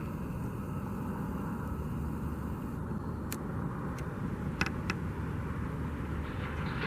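Steady rumble of road traffic going by, with a few light clicks in the middle and a vehicle swelling in near the end.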